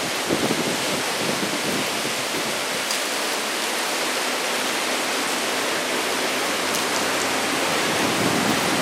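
Heavy rain from Typhoon Nanmadol (No. 14) falling in a steady hiss, with wind buffeting the microphone briefly near the start.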